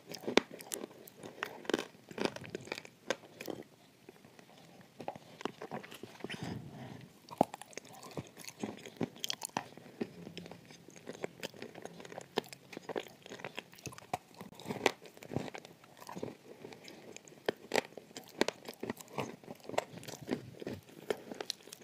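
A person biting and chewing chunks of dry clay close to the microphone: an irregular run of sharp crunches and crackling as the pieces break between the teeth.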